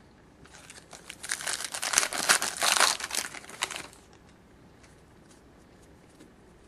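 Wrapper of a 2011-12 Panini Contenders hockey card pack being torn open and crinkled for about three seconds, then a few faint clicks.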